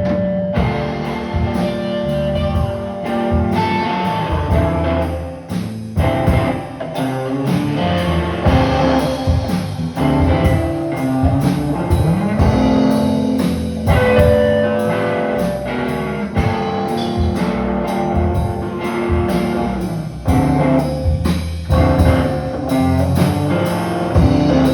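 Live guitar music with a steady beat, played as an instrumental passage with no singing.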